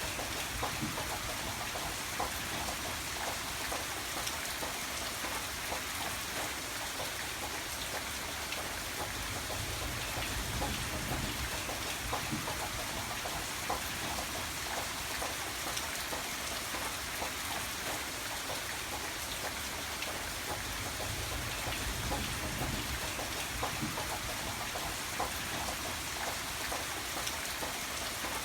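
Steady rain falling, an even hiss dotted with many individual drops ticking on a surface, over a low rumble.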